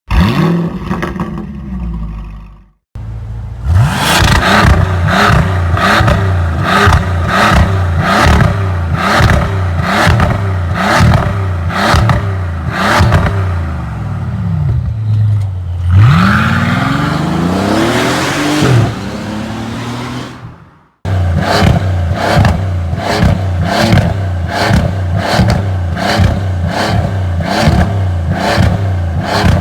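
Bentley Continental's engine revved through a custom cat-back sport exhaust with acoustic valves: short throttle blips about once a second, then one longer rev that climbs and falls away about two-thirds of the way in, then quicker blips again after a brief gap.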